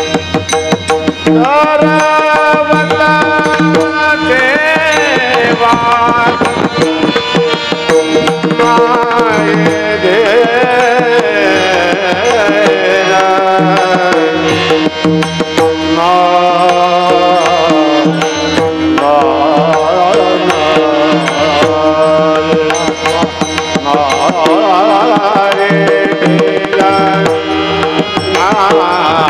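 Kirtan music: a man's voice singing long, wavering, ornamented melodic phrases over tabla and a steady held drone.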